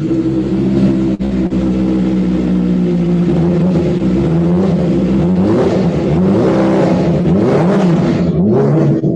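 Kawasaki Ninja ZX-25R's 249 cc inline-four engine with a Yoshimura racing exhaust, running steadily and then, from about three seconds in, revved in a quick series of throttle blips that rise and fall in pitch. It cuts off suddenly at the end.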